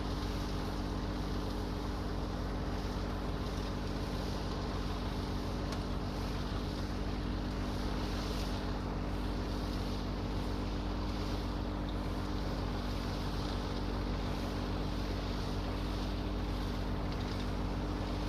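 Tractor engine running at a steady, even speed, with no revving or change in pitch, along with some wind noise.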